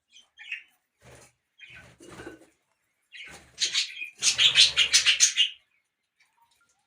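Australian parrots: a short chirp, then scattered rustling bursts, and about four seconds in a loud, rapid flutter of wings lasting about a second.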